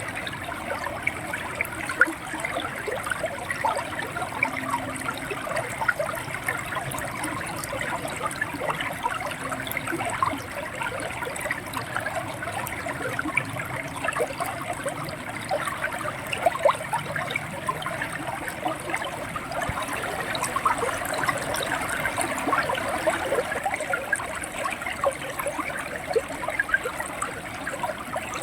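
River water flowing and gurgling, a steady rush with many small splashes throughout.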